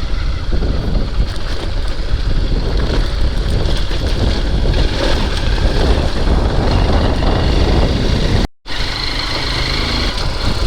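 XR dirt bike's single-cylinder engine running while riding over a rough off-road track, heard from the rider's camera. The sound breaks off for an instant near the end, then carries on steadier.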